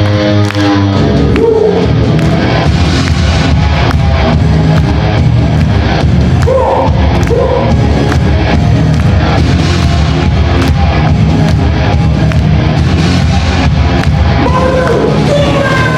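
A live rock band playing loudly: drum kit and bass keep a steady beat, with a singer's voice coming and going over it.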